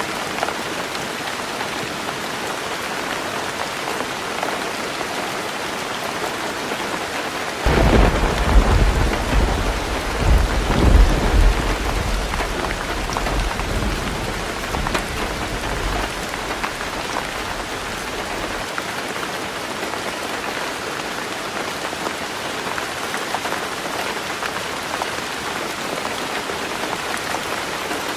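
Heavy rain drumming on a roof in a steady hiss. About eight seconds in, a sudden clap of thunder breaks in and rolls on as a deep rumble for several seconds before dying away.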